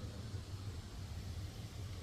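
A car running, heard as a steady low rumble with a faint hiss over it.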